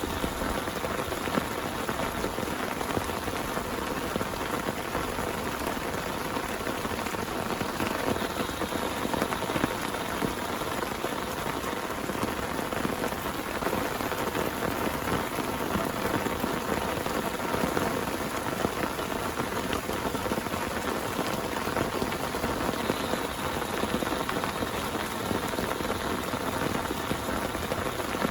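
Heavy rain falling steadily, a dense even patter of raindrops without a break.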